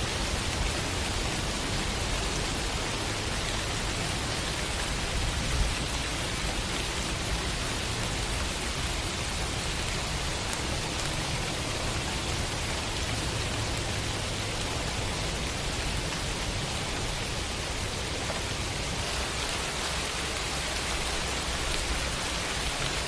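Steady rain falling, an even hiss with a low rumble underneath; one brief louder tap about five and a half seconds in.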